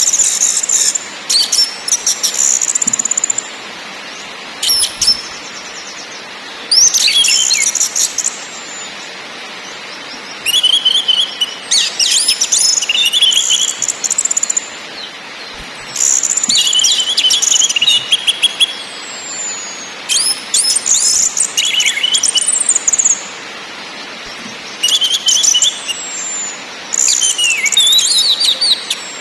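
Orange-headed thrush (anis merah) singing in short, high, rapid phrases of trills and whistles, each a second or two long with brief pauses between, over a steady background hiss.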